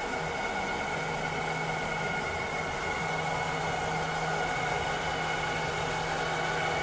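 Robotic vacuum cleaner running steadily: an even whirring hiss with a steady motor whine and a low hum that drops out briefly near the middle.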